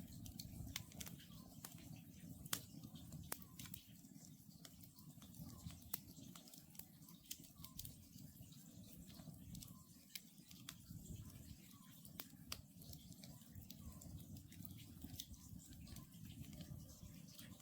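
Wood campfire crackling with frequent sharp pops over a low, steady rush of the flames. Faintly, an Oriental scops owl calls over and over, about once a second.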